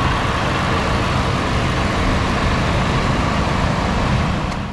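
Supercharged 5.0-litre V8 of a 2016 Shelby F-150 idling steadily, heard close from the open engine bay.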